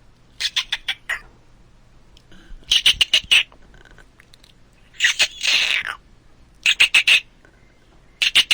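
A bird calling in about five loud groups of rapid, high-pitched squawks, with short pauses between the groups.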